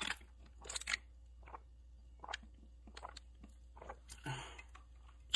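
Close-miked eating sounds: a sip through a drinking straw near the start, then mouth-closed chewing of a biscuit, with scattered small wet clicks and smacks and a short louder bit of noise a little after four seconds.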